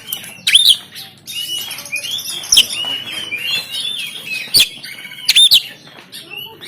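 Oriental magpie-robin (kacer) singing a fast, varied run of rising and falling whistled notes, broken by short, harsh loud notes about half a second in and several more through the middle of the song.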